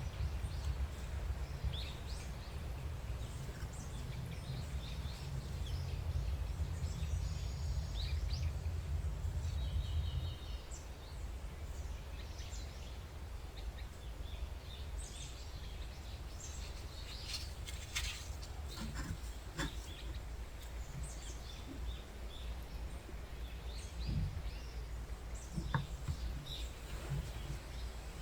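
Small birds chirping over a steady low rumble; the rumble drops about ten seconds in. A few light clicks come in the second half.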